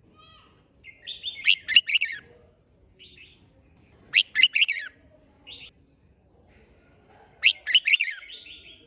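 Red-whiskered bulbul singing: three short, quick warbled phrases about three seconds apart, with softer single notes between them.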